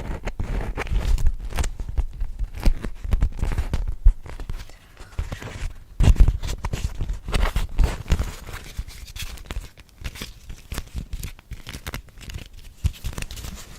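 Close-miked ASMR triggers: a crinkly material is rubbed, crinkled and tapped right at the microphone, giving dense irregular taps and crackles with deep thumps.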